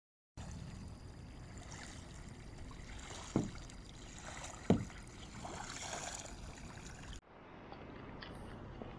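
Kayak paddling on open water: steady splashing and lapping of the paddle and hull, with two dull knocks about three and a half and four and a half seconds in. About seven seconds in it cuts to a quieter, steady wash.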